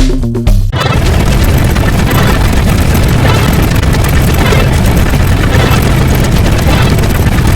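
Music that cuts off less than a second in, followed by a loud, steady, engine-like rumbling noise.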